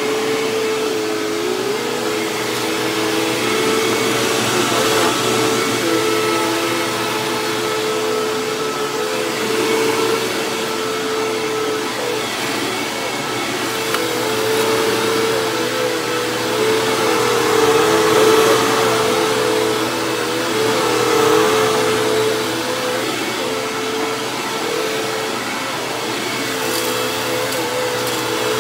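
Hoover WindTunnel Plus upright vacuum cleaner running over shredded paper, its motor humming steadily with a pitch that wavers slightly.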